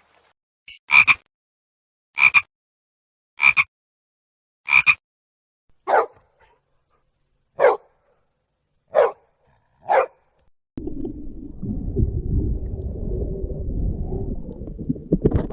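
A dog barking, eight single barks spaced about a second apart; the first four are higher-pitched and the last four lower. About eleven seconds in, a steady low noise takes over.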